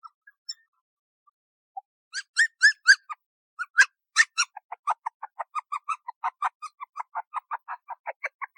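Short, high-pitched animal calls: a few loud rising chirps about two seconds in, then a fast run of brief calls, about five a second, to the end.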